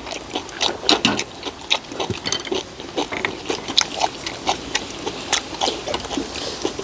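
People chewing and smacking their lips close to the microphone: a steady run of irregular wet clicks, several a second.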